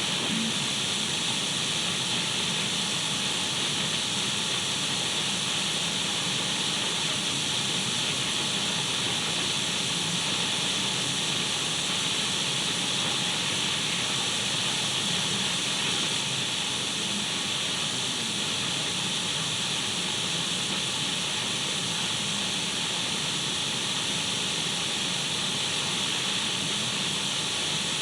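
Radio static: a steady, even hiss of an untuned radio, strongest in the upper treble, with no change in pitch or rhythm.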